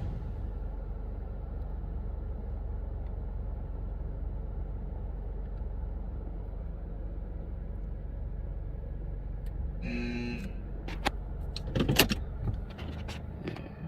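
Steady low rumble of a car idling, heard from inside the cabin. About ten seconds in there is a short tone, then several sharp clicks and knocks, the loudest about two seconds later, after which the rumble falls away.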